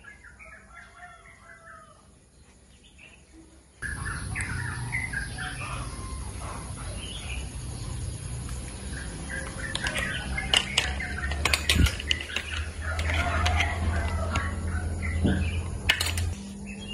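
Small birds chirping, faint at first; from about four seconds in they are louder over a steady low rumble, with a few scattered clicks.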